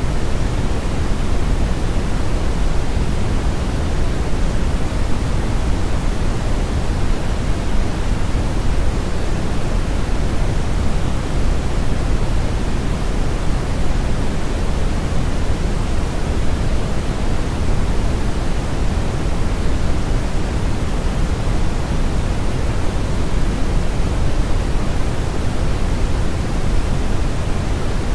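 Steady brown noise: an even, unbroken hiss-rumble with most of its weight in the low end, the highs rolled off, like a river current or strong wind.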